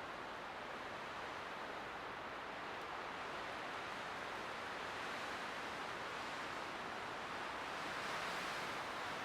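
Light wind blowing as a steady rush of noise, swelling gently about eight seconds in.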